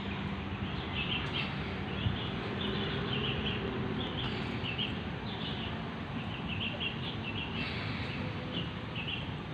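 Small birds chirping in short repeated bursts, over a steady low background rumble.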